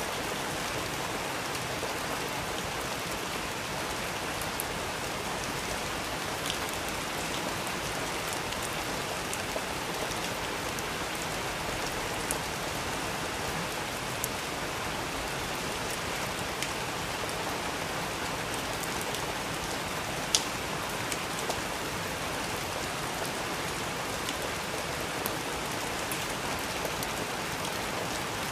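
Steady rain falling, with a few sharp, isolated clicks now and then, the loudest about two-thirds of the way through.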